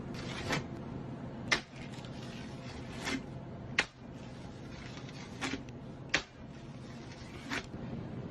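A series of seven short, sharp clicks or snaps at uneven intervals, roughly one a second, over a faint steady hum.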